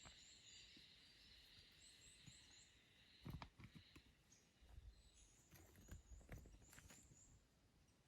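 Near silence: faint outdoor ambience with small, high chirps repeating throughout and a few soft clicks and knocks.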